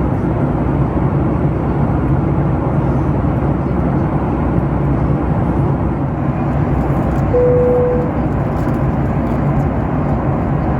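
Steady cabin roar of a Boeing 737-9 MAX in flight, engine and airflow noise heard from a passenger seat. About seven seconds in, a short single steady tone sounds briefly over it.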